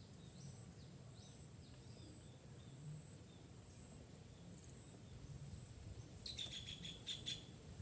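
Faint bird chirps: a few short falling chirps, then a quick run of louder chirps for about a second near the end.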